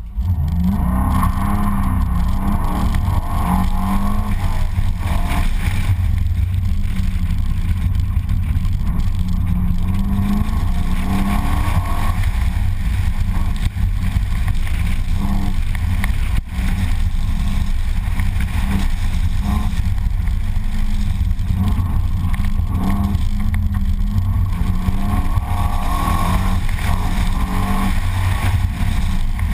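Corvette V8 engine driving off and across a paved lot, heard from the hood, its note rising and falling repeatedly as it accelerates and eases off, with two brief dips in loudness near the middle.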